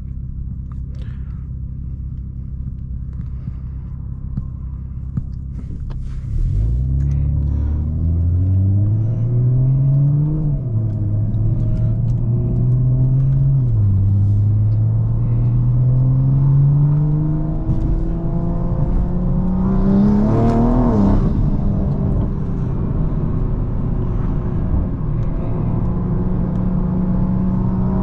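Turbocharged B58 inline-six of a big-turbo BMW M340i under way. It runs steadily at first, then about six seconds in it accelerates. The engine note climbs and drops back twice, as at gear shifts, then makes a longer climb to a peak about twenty-one seconds in before easing to steadier running.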